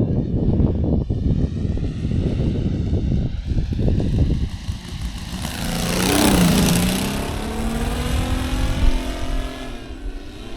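Saito FG-60R3 three-cylinder radial engine of a quarter-scale RC Sopwith Pup flying past: its note swells about five seconds in, drops in pitch as the plane passes overhead, then fades away. Before the pass, a loud low rumble with irregular knocks.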